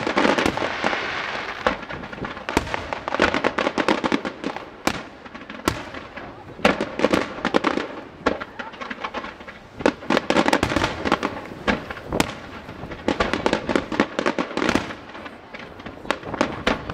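Firework display: many sharp bangs and dense crackling, coming in thick clusters every few seconds with single loud reports in between.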